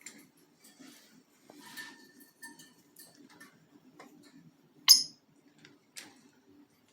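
Pet parrots moving about, with scattered small clicks and taps and one short, sharp, high chirp about five seconds in, followed by a fainter one a second later.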